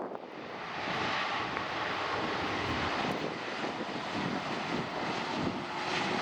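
Jet airliner engines, a wide rushing noise that swells over about the first second and then holds steady with a faint whine.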